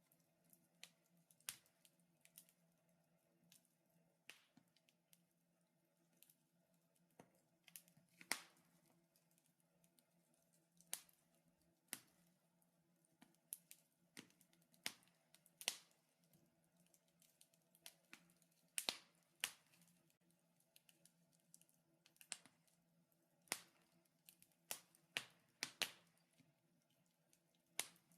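Wood fire crackling: irregular sharp pops and snaps from burning logs, some faint and a few louder, spaced a second or so apart.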